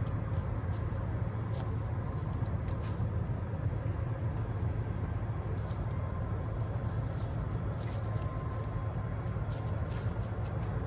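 Steady low rumble of a vehicle engine running, with faint light clicks scattered through.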